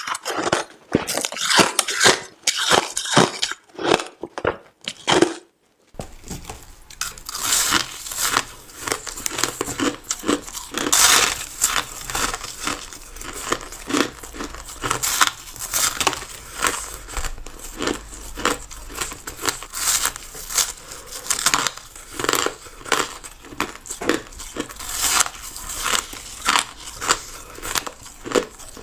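Crushed ice being bitten and crunched close to the microphone: a run of crisp, sharp crunches. About six seconds in, a steady background hiss comes in and the crunching turns denser and almost continuous.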